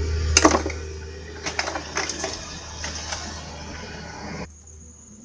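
Small hard parts being handled: a sharp clack about half a second in, then a few lighter clicks and taps, over a steady low hum. The sound cuts off abruptly near the end.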